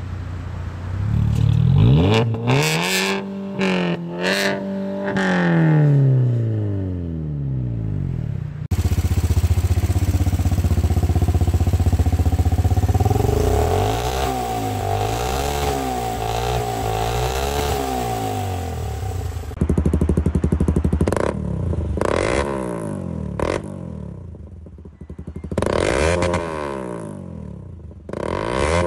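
Vehicle engines with modified exhausts being revved, in three separate shots: rev blips that climb and drop back near the start, a steadier wavering engine run in the middle, then several short sharp revs near the end.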